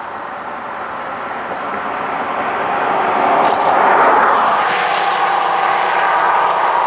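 Train approaching, its noise building steadily for about four seconds and then holding loud and steady as it reaches and runs past.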